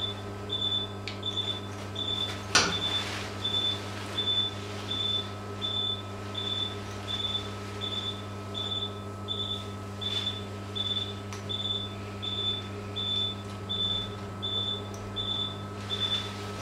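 Patient monitor giving its pulse tone during anaesthesia: a short, high beep repeating evenly about one and a half times a second, over a steady low electrical hum, with a single sharp knock a few seconds in.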